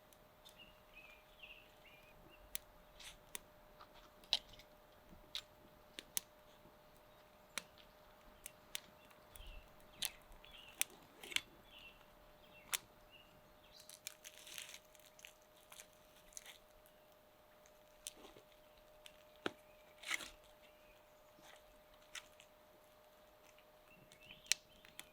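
Faint, irregular snaps and pops of a small, newly lit campfire, with a few bird chirps in between.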